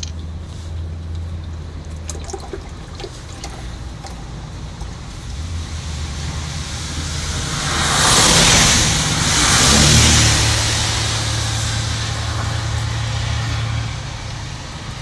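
Volvo D13 inline-six diesel truck engine idling steadily. A loud hissing rush swells up twice about eight and ten seconds in, and the engine note steps slightly higher after the second.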